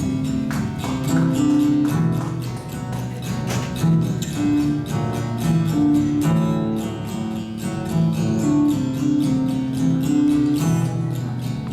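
Live guitar music: chords strummed in a quick, steady rhythm over a moving line of low notes.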